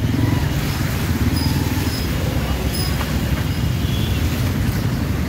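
Motorcycle engine running steadily while riding in slow traffic, a low continuous rumble with road and traffic noise around it.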